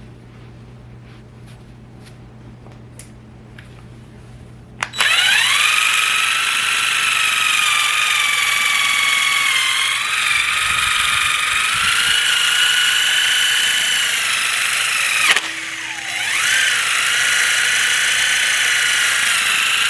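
A power tool's electric motor, like a drill, spinning up about five seconds in and running at a steady high whine, stopping briefly near the fifteen-second mark and spinning up again. Before it starts there is only a low hum and a few small clicks.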